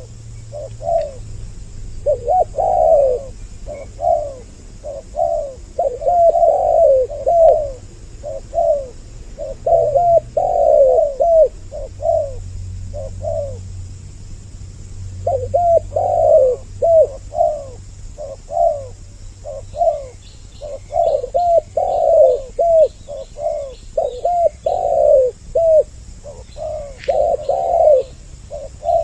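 Spotted doves cooing over and over in short phrases, two birds' calls layered on each other as a lure call, with a brief pause near the middle. Faint high chirps of a small bird come in during the second half.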